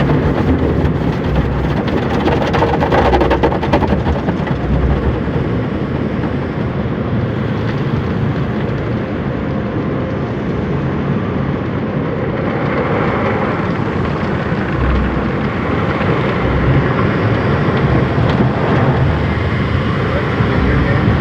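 Automatic tunnel car wash heard from inside the car: a steady rush of water spray and machinery over a low rumble.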